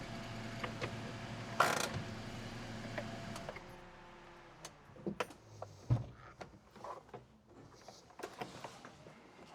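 A small kei truck engine running steadily, with one sharp knock about a second and a half in. The running stops about three and a half seconds in, leaving scattered light clicks and knocks.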